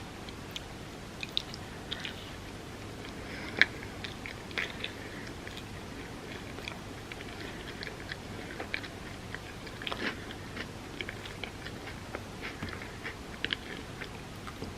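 Close-miked eating sounds: bites and wet chewing with many small crunchy clicks, from someone eating a Biscoff cookie-butter ice cream sundae. A sharper crunch comes about three and a half seconds in and another cluster around ten seconds.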